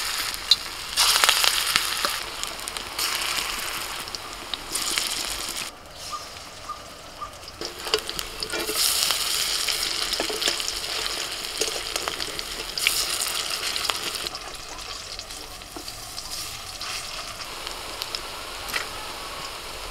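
Small gram-flour fritters sizzling as they fry in hot oil in a wok, the hiss swelling and fading in waves, with a few sharp clicks.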